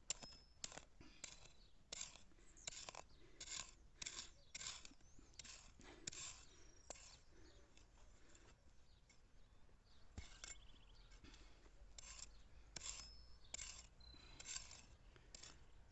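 Hand digging tool scraping and cutting into soil in a run of short strokes, about two a second, with a pause of a few seconds in the middle.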